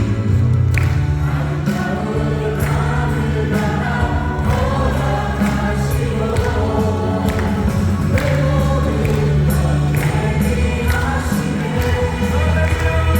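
Worship band playing a praise song: several voices singing together over keyboards, acoustic guitar and a steady drum beat.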